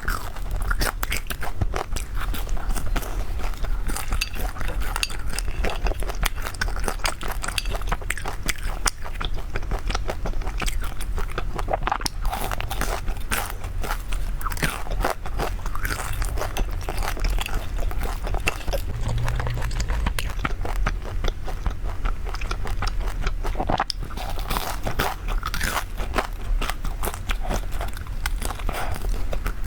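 Close-up eating sounds: continuous chewing and crunchy biting into brown-sugar glutinous rice cakes (hongtang ciba).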